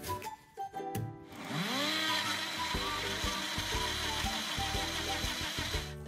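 Electric blender motor spinning up with a rising whine about a second in, then running steadily and stopping just before the end, over light background music.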